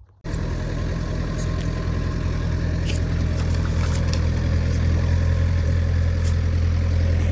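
A heavy engine running steadily at an even low pitch. It cuts in abruptly about a quarter second in.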